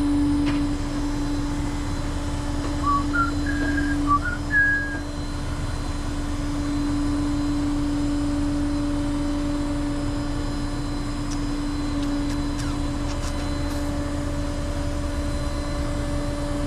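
Truck hydraulics running with a steady hum as a car-carrying deck is lowered. A few short high chirps come about three to five seconds in.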